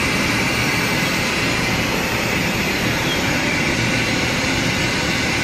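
CNC router running, a steady loud machine noise with a high whine in it.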